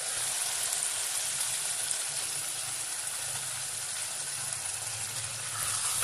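Mutton curry sizzling steadily in an open pot, its cooking water boiled off so the masala and meat are frying in their own oil.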